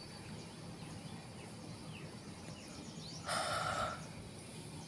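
Quiet outdoor ambience with faint, scattered bird chirps, and one short, harsh, noisy sound lasting under a second about three seconds in.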